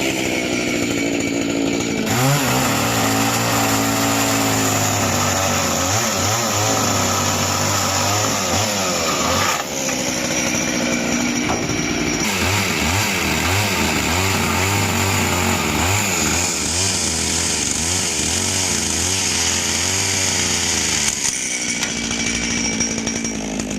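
Chainsaw running and cutting, its engine pitch rising and falling repeatedly as it works, with a brief dip about ten seconds in.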